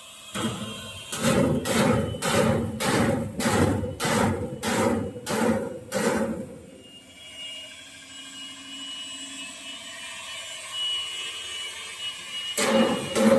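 Hammer blows on a steel frame, about two a second, stopping a little past halfway and starting again near the end.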